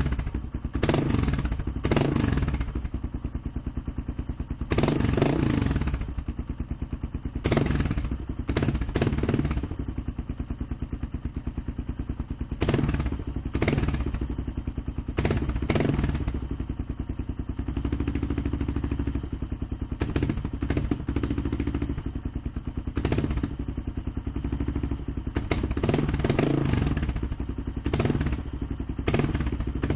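Kawasaki KLR650's single-cylinder four-stroke engine running through an aftermarket DG exhaust, idling between short throttle blips every second or two. The blips come less often for a while in the middle.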